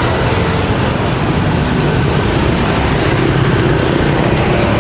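Loud, steady street traffic noise.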